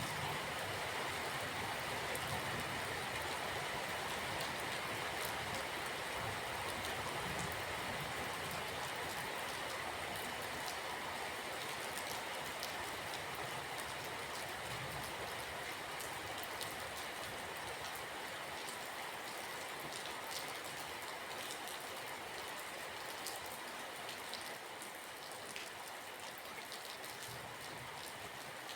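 Steady rain: a dense hiss of falling water dotted with many separate drop ticks, easing slightly in level toward the end.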